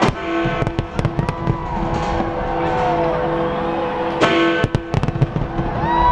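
Fireworks bursting overhead in quick bangs: one right at the start, a cluster about a second in, and another cluster after about four seconds, over music.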